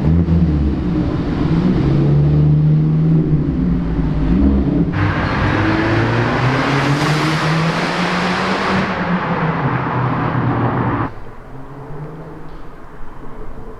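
Car engine running at a steady, slowly varying pitch while driving, with a loud rush of road and wind noise joining from about five seconds in. The sound drops abruptly about eleven seconds in, leaving a quieter engine note.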